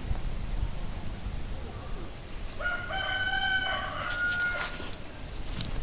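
A rooster crowing once, a drawn-out call of about two seconds starting about two and a half seconds in, over steady low outdoor rumble.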